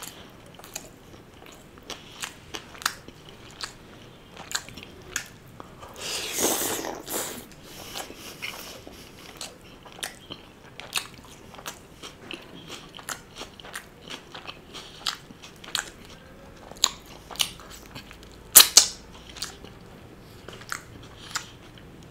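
A person chewing and biting tandoori chicken: irregular wet mouth clicks and smacks. There is a louder, longer noisy bite about six seconds in and a sharp loud click near the end.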